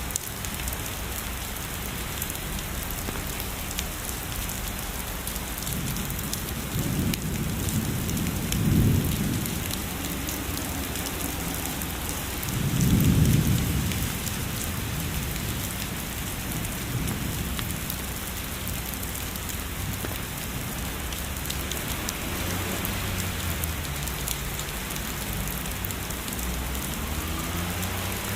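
Steady heavy rainfall with two low rumbles of distant thunder, one about seven seconds in and a louder one about thirteen seconds in.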